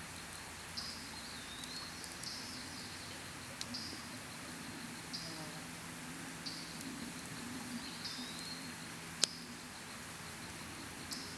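Campfire crackling with scattered sharp pops, the loudest about nine seconds in, over a steady hiss. Short high chirps repeat about once a second in the background.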